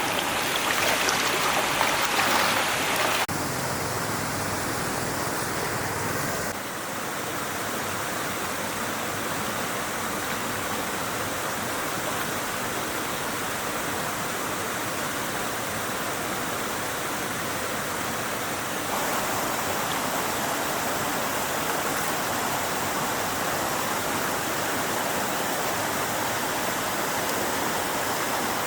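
A stream's water flowing over rocks in a steady rush. It is louder and brighter for the first three seconds, then shifts in level abruptly a couple more times.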